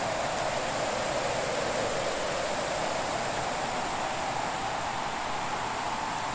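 Steady rushing hiss of a fireplace-and-snowfall ambience, even in level, with almost no crackles or pops.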